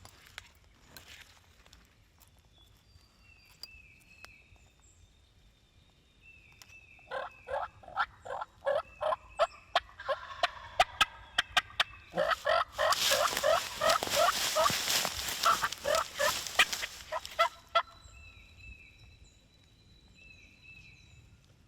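Turkey yelping: a series of evenly spaced yelps about 7 seconds in, then a louder, faster, raspier run of notes lasting about five seconds. Small songbirds chirp faintly before and after.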